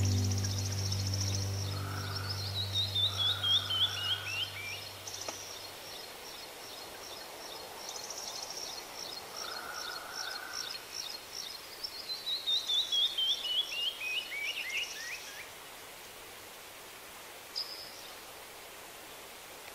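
Songbirds singing over a soft steady hiss: rows of quick high chirps, and twice a run of about ten notes stepping down in pitch. Background music fades out in the first few seconds.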